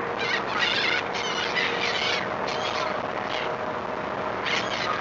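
Seagulls calling: a run of short, high squealing cries in several clusters, over the steady hum and rush of the ferry.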